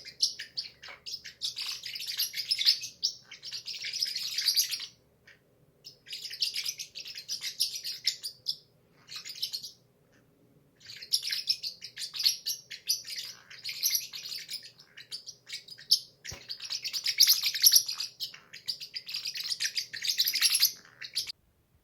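Small pet parrot chattering in rapid, high chirps, in bouts of a few seconds with brief pauses between them, cutting off shortly before the end.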